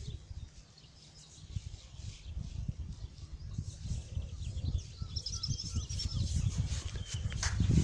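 Small birds chirping and singing, more of it from about halfway through, over a low rumble on the microphone.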